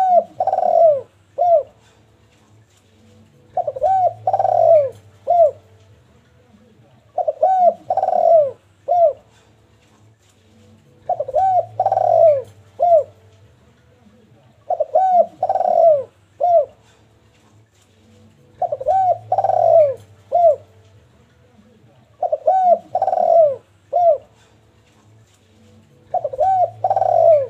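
Derkuku dove cooing: a phrase of a few coos with one longer note in the middle, repeated about every three and a half seconds. It is a loud, busy call of the kind played to cage birds to bring them into breeding condition.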